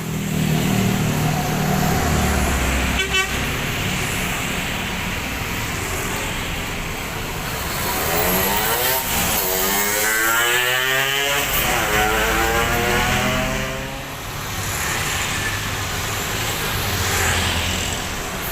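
Bus engines running at a terminal; one revs, its pitch rising and falling twice for several seconds near the middle, over a steady low rumble.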